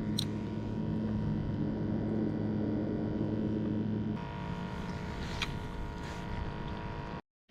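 A steady low engine drone with several even tones; its pitch pattern changes abruptly about four seconds in, with a couple of faint clicks, and it cuts off suddenly just before the end.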